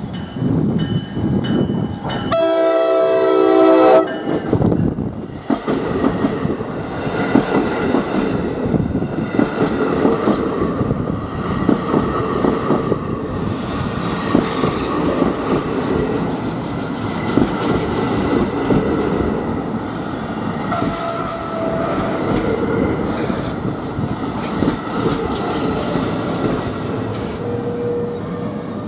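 An NJ Transit train's horn sounds one chord for about two seconds, then the train runs past with steady wheel clatter over the rails. Some wheel squeal and hiss comes in during the last third.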